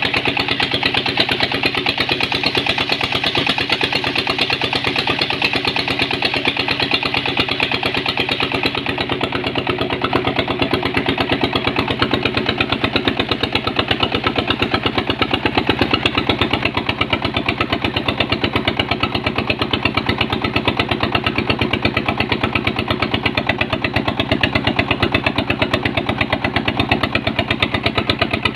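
The engine driving a red-brick press machine, running steadily with a rapid, even beat.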